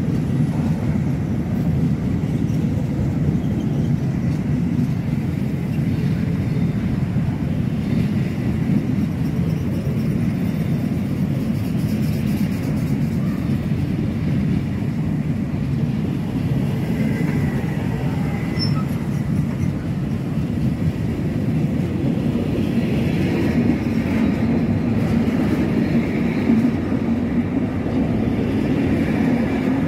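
Container freight train's wagons rolling past at steady speed: a continuous low rumble of wheels on rail, with faint higher squeals now and then.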